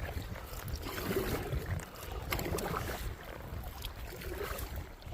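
Canoe paddling on a river: water splashing and lapping around the hull, over a low rumble of wind on the microphone, with a few sharp knocks.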